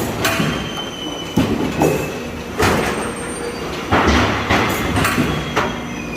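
Colour steel roofing-sheet production machine running, with high metallic squeals and irregular sharp clanks and knocks over a steady mechanical din.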